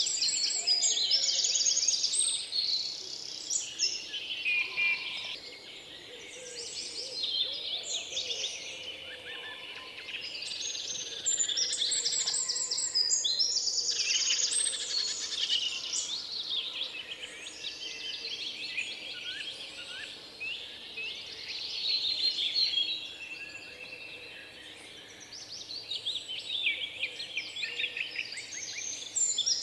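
Several songbirds singing at once, a dense chorus of high chirps and trills, with a fast trilled phrase coming back a few times.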